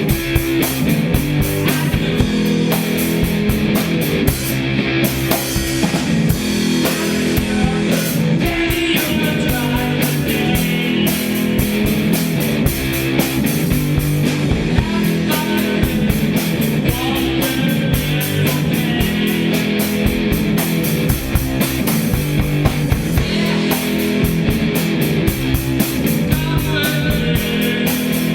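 Rock band playing: electric guitar and drum kit in a full, continuous rock track with a steady beat.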